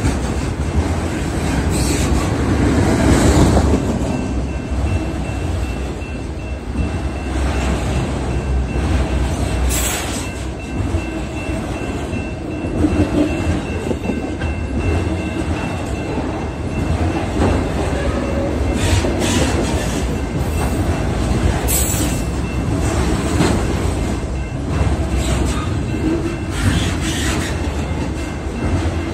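Freight train of autorack cars rolling past close by: a steady rumble and clatter of wheels on the rails, with a thin squealing tone from the wheels and a few sharp clanks.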